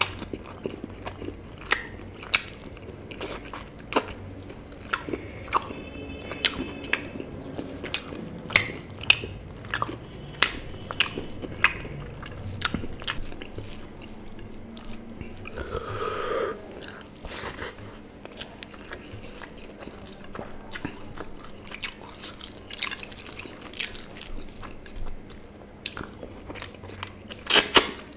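A person chewing and biting chicken leg and curry rice eaten by hand, with wet mouth smacks and clicks about once or twice a second. The loudest bites come in a cluster near the end.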